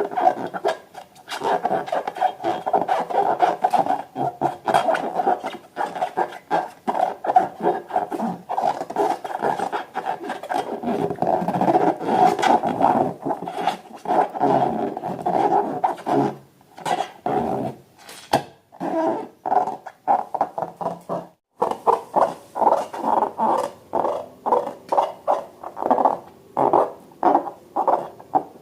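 Rubber balloons squealing and squeaking as they are squeezed and handled, in long wavering stretches, then as a string of short squeaks after a brief break past the middle.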